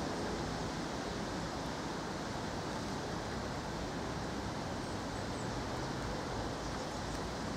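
Steady rushing noise of a thunderstorm's wind and rain, even throughout, with no distinct claps or impacts.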